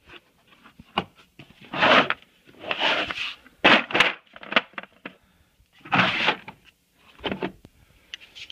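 A series of short rustling and scraping noises with sharp knocks and clicks, as of things being handled close to the microphone. No engine is running.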